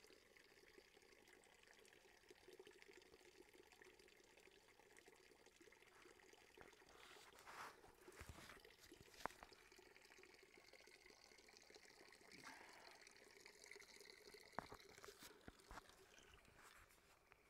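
Near silence: a faint hiss with a few faint clicks, the clearest about halfway through and another later on.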